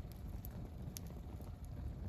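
Wood campfire burning, crackling with a couple of sharp pops about half a second and a second in, over a low steady rumble.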